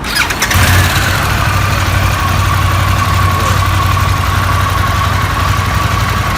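Harley-Davidson Pan America 1250's Revolution Max V-twin idling through an aftermarket Toce catback exhaust; the revs ease down over the first second, then the idle holds steady with a constant high whine over the exhaust note.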